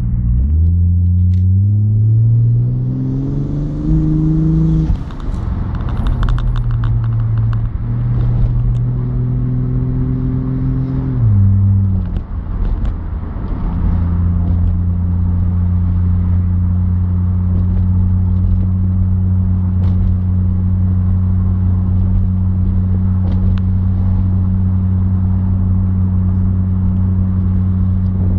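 Mk3 Toyota Supra's turbocharged straight-six heard from inside the cabin, accelerating with rising pitch, changing gear about five seconds in and pulling again. It then eases off and runs at a steady pitch for the second half, cruising.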